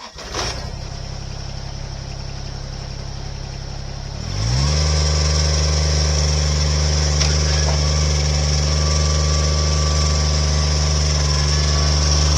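Heavy equipment engine starting up and running, then about four seconds in it revs up and holds steady at a higher speed.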